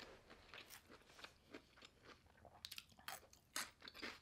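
Close-up chewing of a mouthful of poke bowl, crisp raw vegetables crunching between the teeth in soft, quick, irregular clicks.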